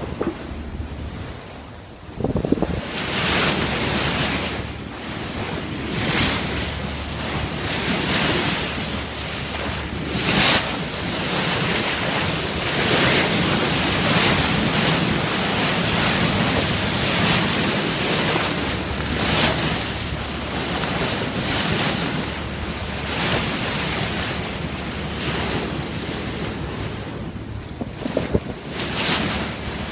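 Wind buffeting the microphone and water rushing and splashing along the bow of a moving dive boat, in surges every second or two, over a low steady drone. It is quieter for the first two seconds, then rises.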